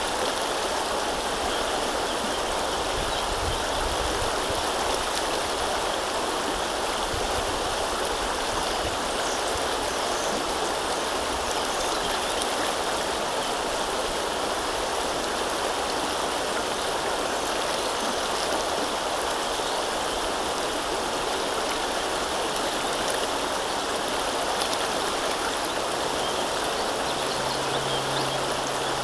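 River water flowing, a steady even noise with no change.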